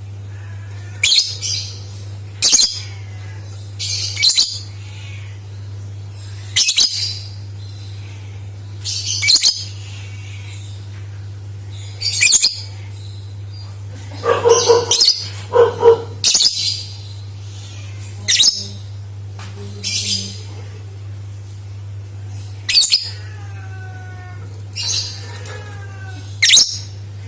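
Lovebird calling in short, shrill chirping bursts every second or two, with a denser run of calls about halfway through. A steady low hum runs underneath.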